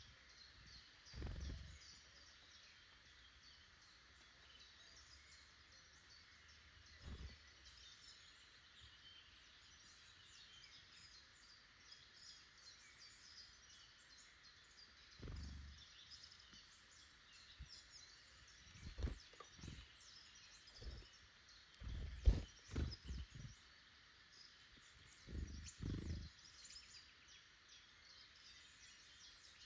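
Quiet woodland ambience with faint distant birdsong. It is broken by low dull thumps: single ones about a second in, around 7 s and around 15 s, then a run of them in the back half, the loudest about two-thirds of the way through.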